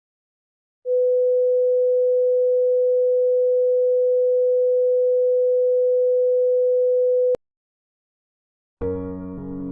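A steady electronic beep tone at one mid pitch, like a test tone, starts about a second in, holds for about six and a half seconds and cuts off sharply with a click. After a short silence, piano music begins near the end.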